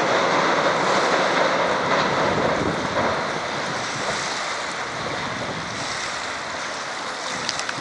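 Running noise of a freight train on a steel girder bridge slowly fading as it draws away, mixed with choppy water lapping at the bridge piers and wind on the microphone. A few sharp clicks near the end.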